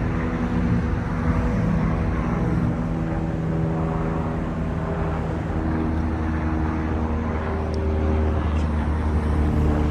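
Airplane engine droning steadily: a low hum made of several steady tones whose pitch drifts slightly.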